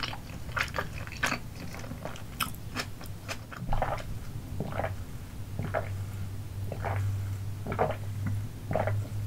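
Close-miked chewing of sticky rice cakes, with wet clicks and smacks. About four seconds in it gives way to drinking through a straw, with a swallow roughly once a second over a low hum.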